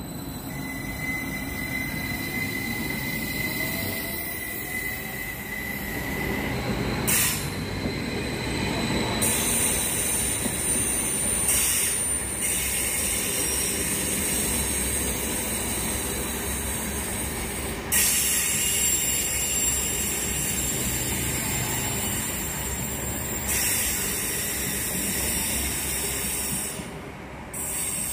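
Vy electric multiple-unit trains, the first a Class 74 Stadler FLIRT, running along the station tracks: steady wheel-on-rail rolling noise, with a thin high squeal held through the first six seconds or so. There are several sudden changes in level along the way.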